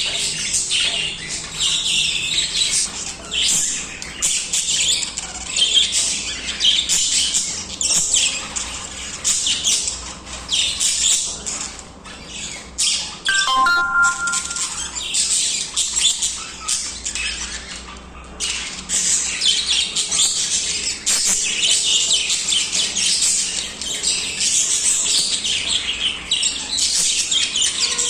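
A group of budgerigars chattering and warbling continuously in a dense mix of rapid chirps and squawks. About halfway through, a short clear tone steps briefly over the chatter.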